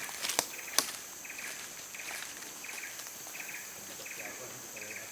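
An insect chirping in a regular rhythm, a short trill about every 0.7 seconds, over a steady high insect hiss. A few sharp clicks in the first second are the loudest sounds.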